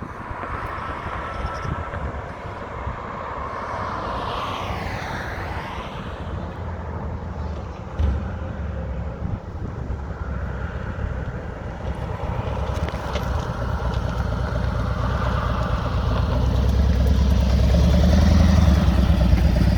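Road traffic noise: passing motor vehicles rumbling steadily, growing louder over the last few seconds.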